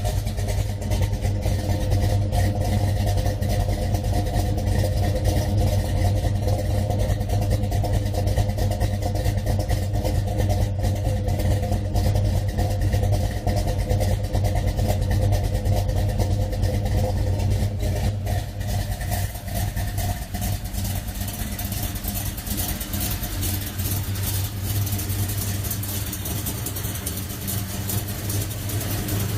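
Muscle car's engine idling steadily at an even pitch, running a little quieter from about two-thirds of the way in.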